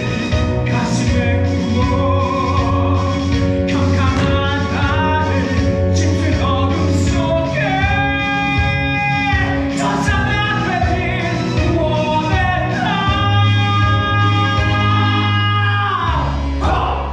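Male voices singing a musical-theatre number over a recorded backing track, with long held notes and a steady bass underneath.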